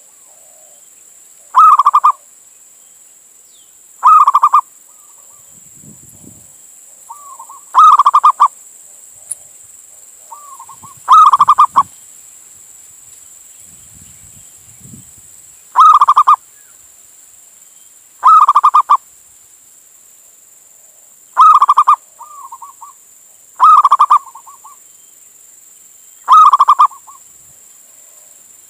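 Male zebra dove cooing its song, a short burst of rapid staccato notes, loud and repeated about every two to three seconds, nine times, with a few softer single notes between some of the calls. A faint steady hiss sits under it.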